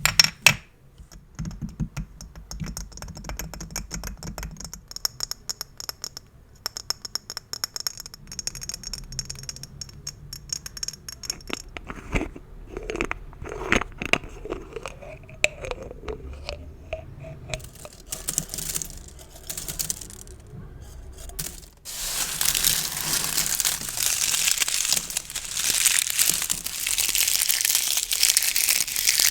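Gift bows handled close to the microphone: light scratching and fine rustling at first, then, about three quarters of the way in, loud, dense crinkling and crushing.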